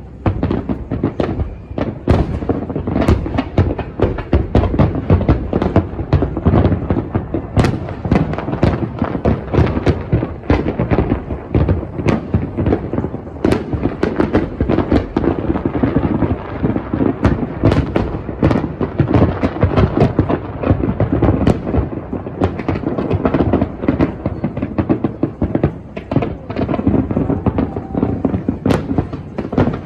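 Aerial fireworks display: a dense, continuous barrage of shell bursts and crackling, bangs following one another in quick succession with no pause.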